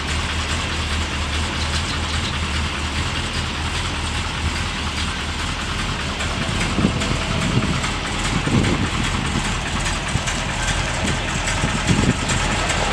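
1968 Corvette L68's 427 big-block V8 with three two-barrel carburettors idling steadily, with a few louder, uneven low buffets in the second half.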